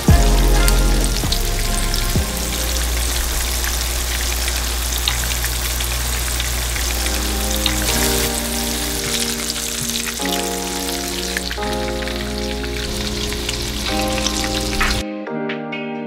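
Egg- and flour-coated snakehead fish pieces frying in hot oil in a pan, a steady sizzle that cuts off suddenly near the end.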